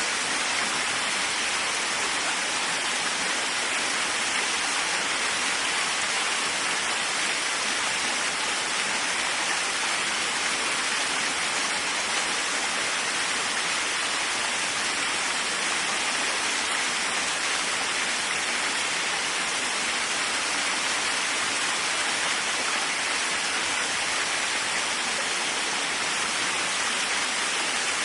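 Waterfall: steady, unbroken rush of falling water, its hiss strongest in the upper middle range and light in the low end.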